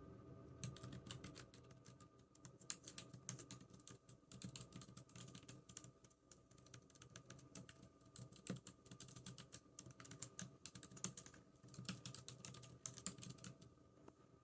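Typing on a computer keyboard: quick runs of key clicks with short pauses between them, starting about half a second in.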